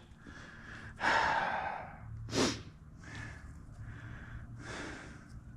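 A man breathing: a long exhale about a second in, a short sharp breath noise around two and a half seconds, and another softer breath near the end, over a low steady hum.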